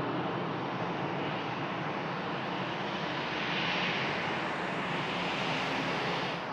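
Airbus A320's CFM56 jet engines running, a steady rushing jet noise that swells brighter and hissier from about halfway in, then cuts off suddenly at the end.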